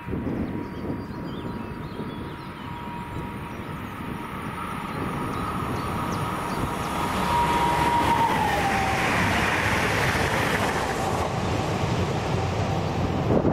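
Leo Express electric multiple unit approaching and passing at speed: the rushing noise of the train builds to a peak about two-thirds in, and a steady high whine drops in pitch as it goes by.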